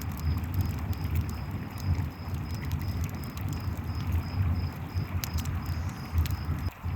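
Layered night ambience: a river's low steady rush, crickets chirping in a regular high pulse about three times a second, and the scattered sharp snaps and crackles of a campfire.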